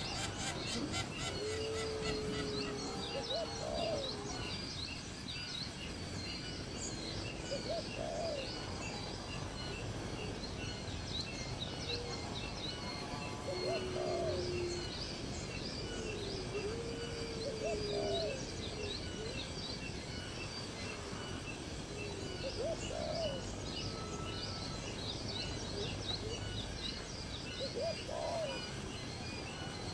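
Birds calling: short, low, rising-and-falling calls every few seconds, with many quick high chirps and a steady high trill underneath.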